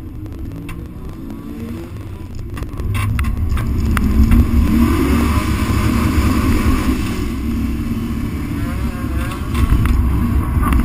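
A race car's engine heard from inside its cabin, running at a low rumble and then pulling away about three seconds in, with a few sharp clicks as it goes, the engine louder and revving up through the rest.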